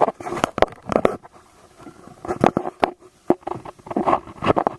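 Irregular sharp knocks and clacks with scraping between them, about a dozen strokes over a few seconds, from gear being handled on a small boat.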